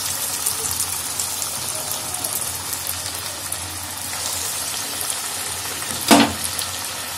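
Breaded cheese-and-sausage corn dogs deep-frying in hot oil in a kadai: a steady sizzle with fine crackling. A single sharp knock stands out about six seconds in.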